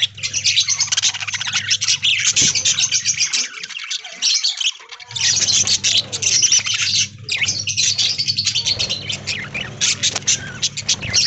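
A flock of budgerigars chattering, with a constant mix of rapid high chirps and squawks that thins briefly about four seconds in.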